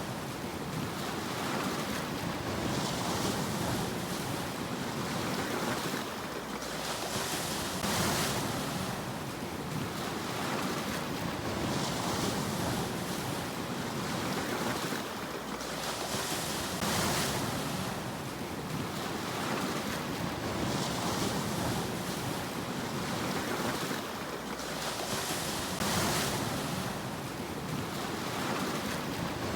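Sea waves breaking and washing on the shore in a steady rhythm, a surge of surf rising about every four to five seconds and falling back to a constant hiss.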